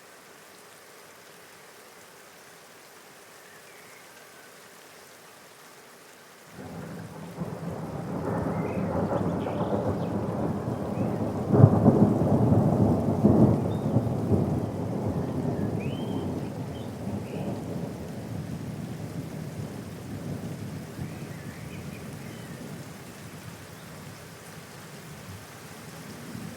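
Steady rain with a long roll of thunder: a low rumble breaks in about a quarter of the way through, peaks with a sharp crack near the middle, then slowly fades back toward the rain.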